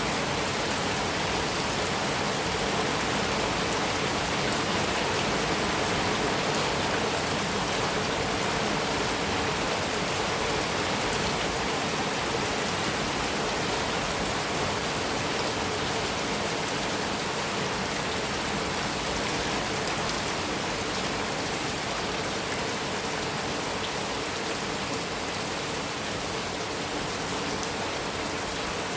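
Heavy rain falling steadily on a metal roof, a dense even patter of drops with no thunder.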